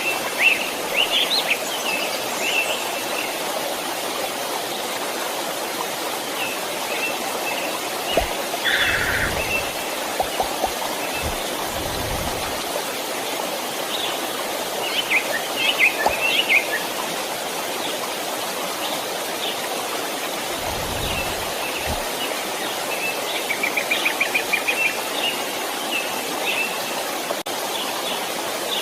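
A creek running with a steady rushing babble, while songbirds chirp on and off above it, with a quick trill of chirps near the end.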